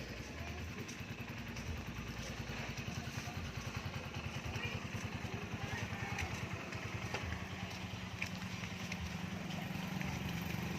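Small motorcycle engine running, its fast even beat getting gradually louder.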